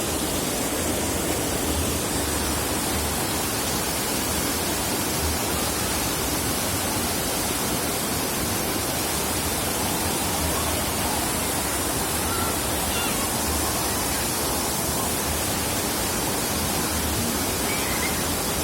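Waterfall and its fast current rushing: a steady, even noise of falling and flowing water.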